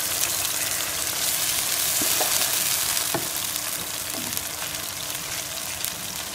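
Chicken and browned onions sizzling in hot ghee in a non-stick pan as watery marinade rinsed from the bowl is poured in, with a wooden spoon stirring and a few light knocks of the spoon about two to three seconds in. The sizzle eases a little toward the end.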